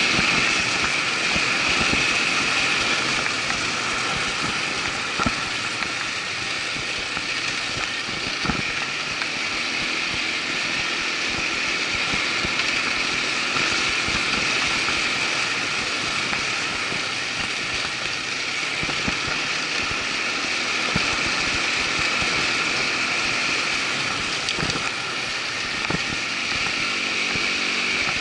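Irbis ATV 200 quad's engine running steadily under way, with scattered sharp knocks throughout.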